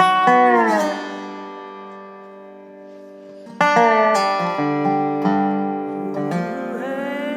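Guitar playing the song's instrumental intro: a chord rings out and slowly fades, with notes sliding down in pitch near the start. New notes are picked about three and a half seconds in and keep ringing.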